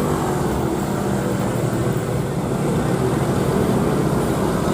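Heavy truck engine running at low speed under load amid road traffic: a steady low drone with no breaks.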